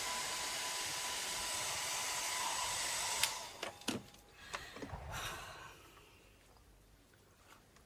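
Hand-held hair dryer running with a steady blowing whine, switched off about three seconds in, followed by a few light knocks as it is handled and put down.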